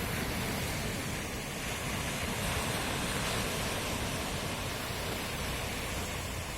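Sea surf washing ashore at night: a steady, unbroken rush of waves.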